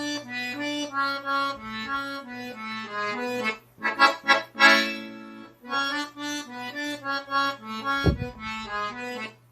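Accordion playing a slow melody note by note over a held bass, with a few louder chords struck about halfway, a short pause, then the phrase again. A brief low knock near the end.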